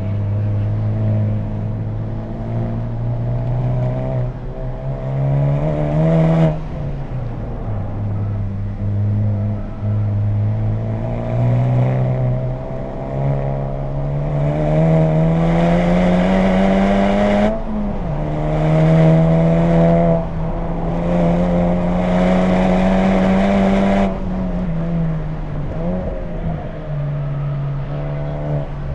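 2020 Honda Civic Type R's turbocharged four-cylinder engine through an HKS Legamax exhaust, accelerating hard on track: the pitch climbs and drops sharply at upshifts twice, holds high for several seconds, then falls away as the driver comes off the throttle about three-quarters of the way through.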